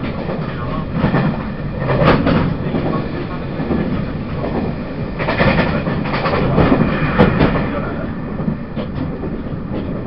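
Running sound of a TRA push-pull Tze-Chiang express (E1000 series) heard on board: a steady rumble of wheels on rail, with a sharp clack about two seconds in and another about seven seconds in.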